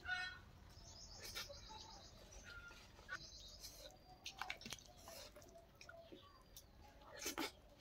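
A person chewing food close to the microphone, with scattered soft crunches and mouth clicks. Birds chirp now and then in the background.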